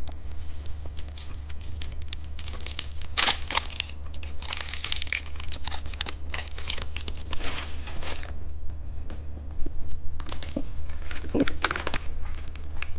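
Candy wrapper being torn open and crinkled, in dense bursts of rustling for several seconds, then scattered crinkles and small taps toward the end, over a steady low hum.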